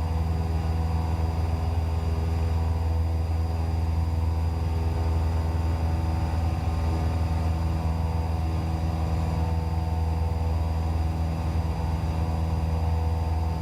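Cessna 172's piston engine and propeller droning steadily in the cabin in flight, an even low hum with no change in pitch.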